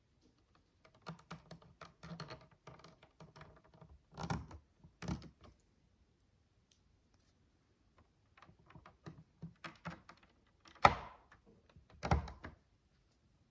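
Micro bricks, miniature plastic building blocks, clicking and rattling as they are handled, in two spells of quick small clicks with a pause between. The loudest knock comes near the end, with another about a second later.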